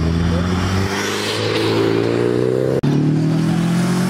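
A Nissan Silvia accelerating away with its engine note rising, cut off abruptly a little under three seconds in. A Subaru Impreza WRX's flat-four boxer engine follows, running loud as it drives past.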